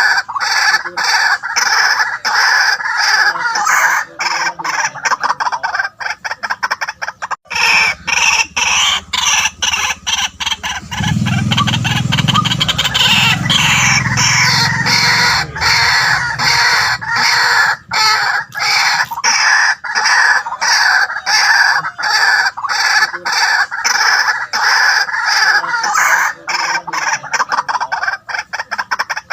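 White-breasted waterhen calling: a rapid, unbroken run of harsh repeated notes, used as a luring call. A low rumble runs under it for several seconds in the middle.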